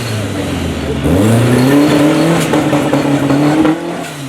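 Modified off-road 4x4 competition truck's engine revving under load: the pitch dips at first, climbs steadily from about a second in, then drops and fades near the end.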